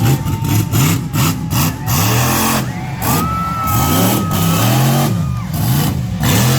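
Monster truck engines revving up and down over and over, with a steady high whine over them through the middle.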